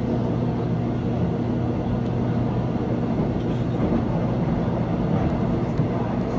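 Seoul Subway Line 1 express electric train running at speed: a steady rumble of wheels on rail, with a constant low hum underneath.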